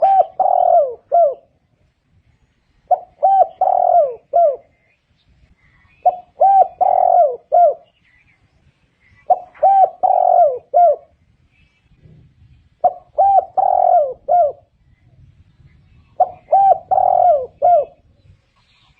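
Spotted dove cooing: a phrase of about four quick coos, the third one held longer, repeated roughly every three seconds, six times.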